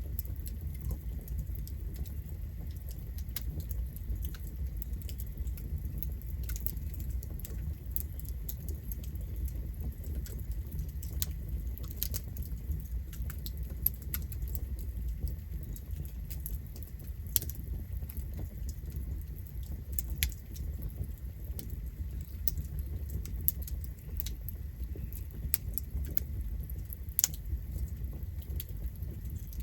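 Wood campfire burning: frequent small irregular crackles and pops, with several louder sharp snaps spread through, over a steady low rumble.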